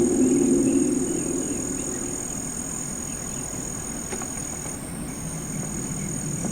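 Low, deep rumbling drone of the kind posted as a 'strange sound' in the sky. It fades over the first two seconds and swells again near the end, over a steady high chirring of night insects.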